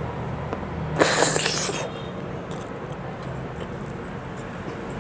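Close-miked eating: a bitten-off mouthful of adobo-braised boiled egg being chewed, with one loud noisy burst about a second in that lasts just under a second. A steady low hum sits underneath.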